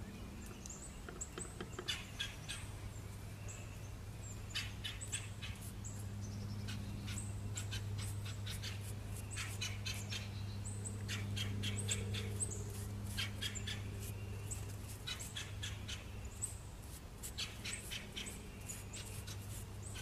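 Small birds chirping and calling, with quick twittering runs and high thin notes that come and go throughout, over a steady low hum.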